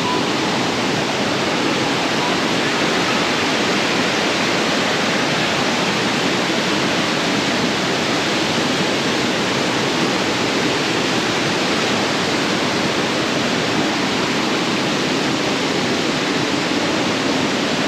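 Waterfall water rushing and splashing over rocks: a steady, unbroken rush of falling water.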